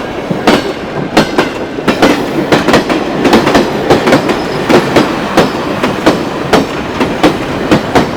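Steam-hauled train running past, its wheels clicking over the rail joints about two to three times a second over a steady rumble.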